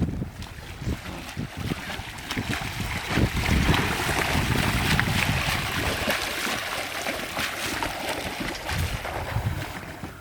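Water splashing as a person swims in cold seawater, with wind on the microphone.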